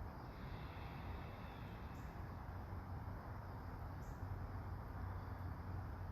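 Soft autumn rain falling steadily, an even low hiss, with a few faint high chirps about two and four seconds in.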